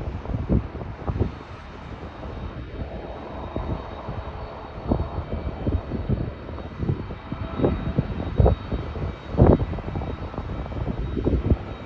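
Jet airliner on its landing approach: a steady engine rush with a faint high whine. Irregular low thumps run through it, the strongest about nine and a half seconds in.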